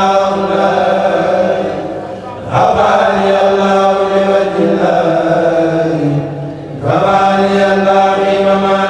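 A kourel chanting a Mouride khassida in Arabic, voices unaccompanied in long held phrases, with brief breaks between phrases about two and a half seconds and seven seconds in.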